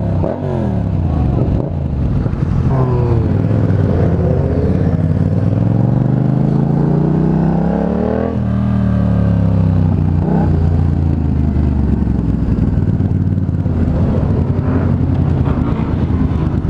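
Motorcycle engine, a Yamaha FZ-07's 689 cc parallel twin, running under way: revs drop at the start, climb steadily for several seconds to a peak about eight seconds in, fall off, then hold steady.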